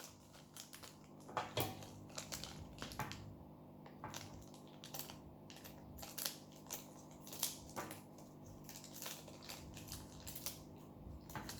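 Plastic blind-bag packaging crinkling and crackling in the hands as it is pulled at to get it open, in faint, irregular crackles and clicks.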